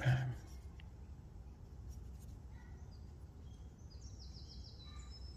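A bird singing a quick run of high, falling notes about four seconds in, over a low steady outdoor rumble; a brief thump at the very start.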